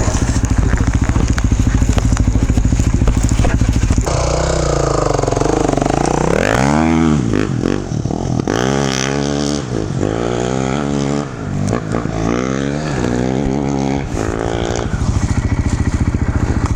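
Dirt bike engines: one idles steadily, then for about ten seconds several single-cylinder trail bikes rev up and pull away one after another, their pitch rising and falling with each throttle blip and gear change. Near the end a steady idle is heard again.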